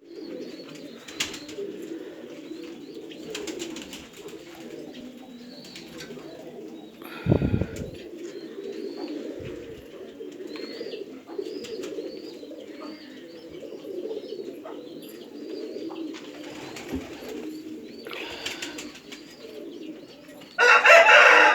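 Pigeons cooing continuously, with small bird chirps over them. There is a sharp thump about seven seconds in, and a loud, harsh burst lasting about a second near the end.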